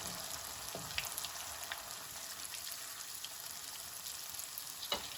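Vegetable Manchurian balls deep-frying in hot oil in a wok: a steady sizzle with scattered small crackles, and a light knock just under a second in and again near the end.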